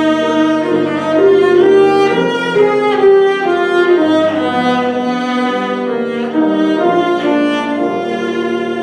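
A bowed string instrument playing a melody of sustained notes, with piano accompaniment.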